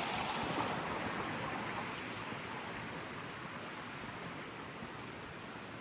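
Creek water rushing, a steady noise that fades gradually over a few seconds.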